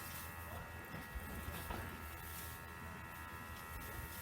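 Steady hum and buzz made of several constant tones over a faint hiss, with no change in pitch or level.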